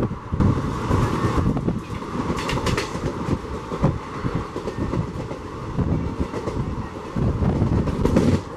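Passenger train running at speed, its coach wheels clattering over the track in a rapid, irregular run of clicks, heard from the open doorway of the coach.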